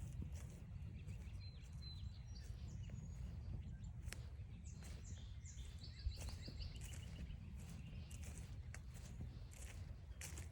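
Small songbirds chirping and calling, with a quick run of repeated high notes about five seconds in, over a low steady rumble and scattered soft clicks of footsteps on the trail.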